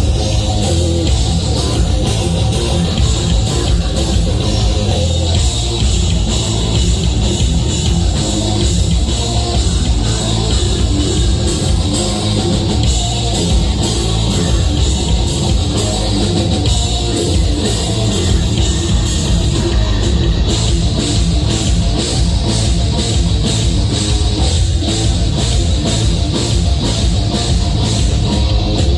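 A live heavy metal band playing loud, with distorted guitars, bass and a pounding drum kit.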